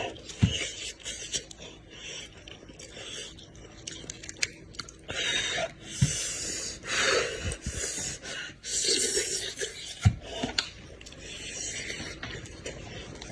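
Close-miked eating of goat head meat: chewing and sucking, with several hissy slurps or breaths each about a second long and a few soft knocks.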